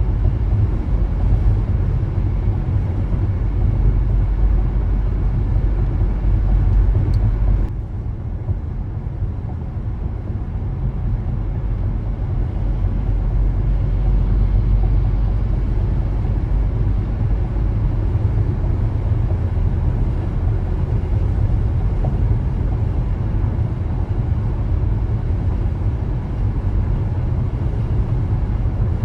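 Car driving along a road: steady low rumble of tyre and engine noise. It drops a little in level about eight seconds in, then builds back up.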